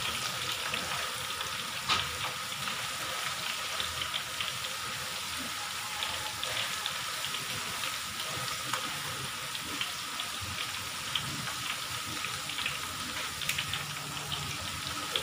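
Tofu cubes deep-frying in a wide wok of hot oil: a steady sizzle with many small crackling pops as the poured-in soaking liquid cooks off into a crispy coating. A wooden spatula stirs through them, with a sharper knock about two seconds in.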